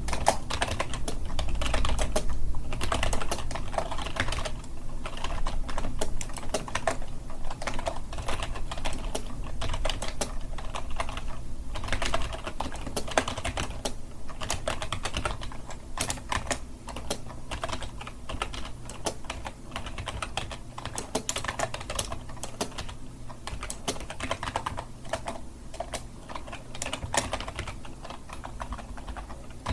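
Typing on a computer keyboard: a steady, fast run of irregular key clicks.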